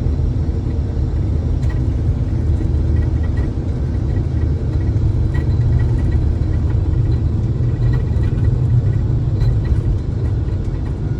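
Steady low road rumble and engine drone heard from inside a moving vehicle.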